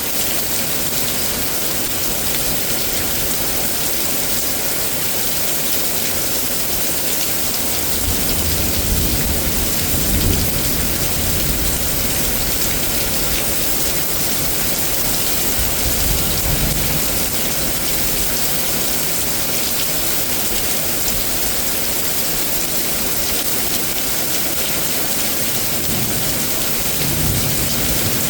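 Heavy rain from a severe thunderstorm falling steadily, with low rumbles of thunder starting about eight seconds in and swelling again near the end.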